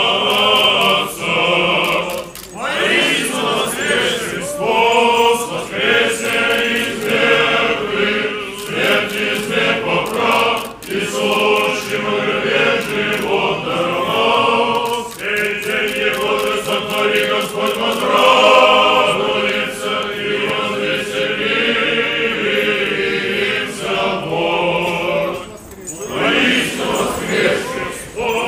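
Church choir chanting a Paschal hymn in Church Slavonic: several voices singing in phrases, with short breaks between them.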